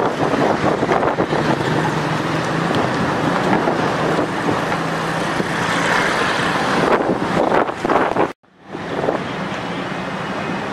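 Strong gusting wind in a dust storm, rushing and buffeting the microphone, with a faint steady low hum in the middle. The sound cuts out for a moment about eight seconds in, then the wind resumes.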